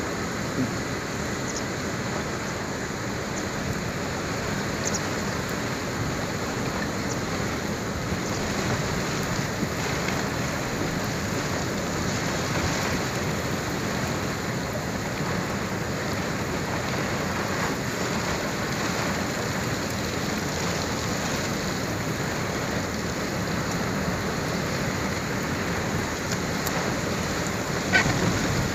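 Heavy rain falling steadily in an even hiss, with a brief sharp tap near the end.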